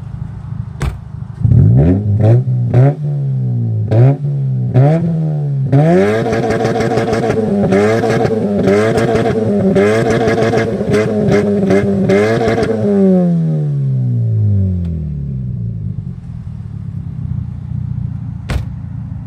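Mazda 6 exhaust with the rear silencer deleted, the engine revved from idle: a few quick blips, then revs held and wavering for several seconds before dropping back to idle. The exhaust is loud and drones.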